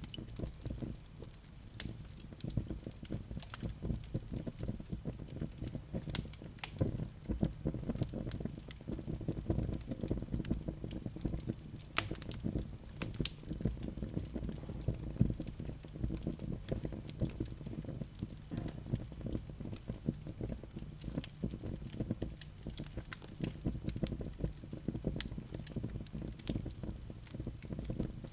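Wood fire burning in a fireplace: a steady low rumble of flames with dense, irregular crackles and occasional sharper pops.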